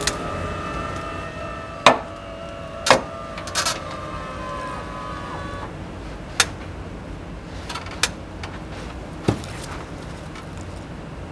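Golf clubs striking balls on a practice range: sharp cracks, the loudest about two seconds in and another a second later, then several fainter strikes spaced a second or two apart. Music held notes fade out around the middle.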